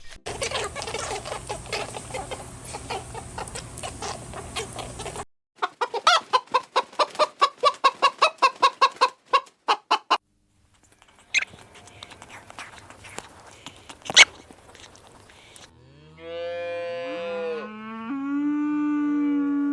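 Chickens clucking: a busy stretch of overlapping clucks, then a rapid run of clucks at about five a second. Near the end comes a long, low call with a wavering pitch, most like a cow mooing.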